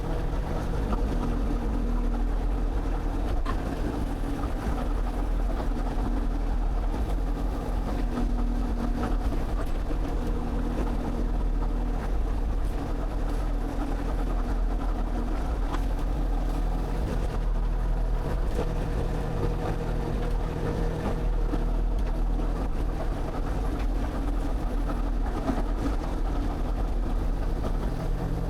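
Excavator's diesel engine running steadily under load while digging, its pitch rising and falling a little as the machine works.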